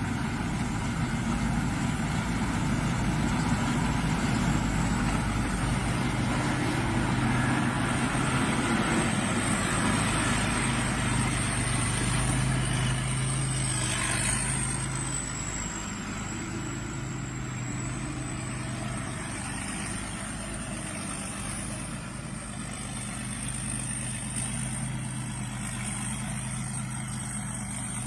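Diesel engine of a Thai Seng Yont rice combine harvester running steadily, easing off slightly about halfway through.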